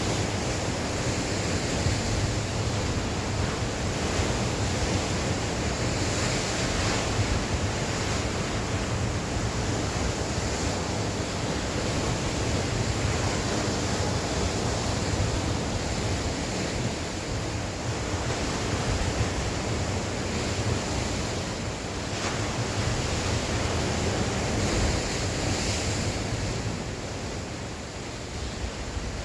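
Sea waves surging and washing ashore in a continuous rush, with wind blowing across the microphone. The surf eases slightly near the end.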